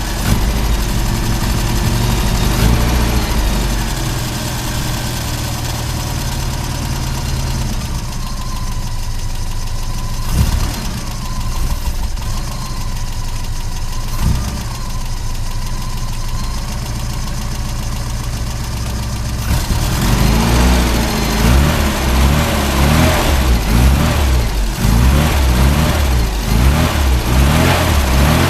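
1980 Austin Mini's tuned 1300 cc MG engine running soon after a cold start. It idles steadily with an occasional single knock, then about two-thirds of the way through the throttle is blipped over and over, the revs rising and falling.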